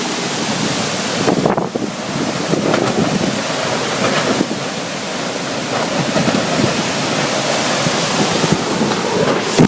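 Strong, gusty wind blowing across the microphone: a loud, continuous rush that surges and eases, with a brief lull about a second and a half in.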